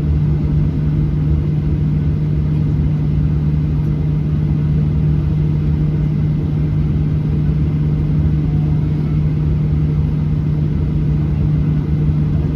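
Steady cabin drone inside a Boeing 737-800 seated just ahead of the wing, from its CFM56-7B turbofan engines and airflow, with a steady low hum and no change in pitch.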